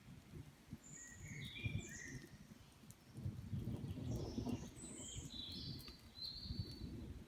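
Small birds chirping in short, high calls, over a low rumble that swells about three seconds in and runs on: thunder rolling in the distance.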